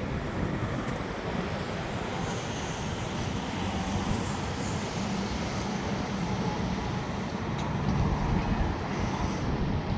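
Steady low rumble of heavy vehicle noise, with a faint hum, growing a little louder about eight seconds in.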